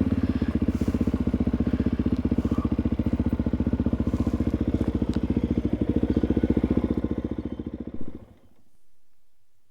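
Suzuki DR-Z400E single-cylinder four-stroke trail bike idling with a steady, even thump, then switched off about eight seconds in, the engine dying away.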